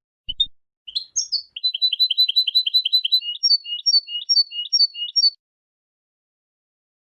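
European goldfinch singing: a few short chirps, then a fast run of repeated notes at about eight a second, slowing to paired notes for a couple of seconds before stopping about five seconds in.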